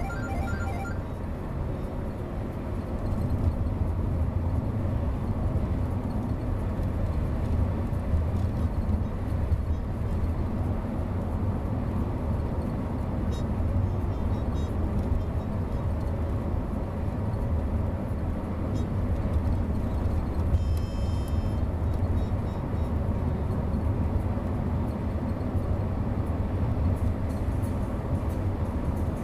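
Steady low rumble of a car driving on the road, even throughout.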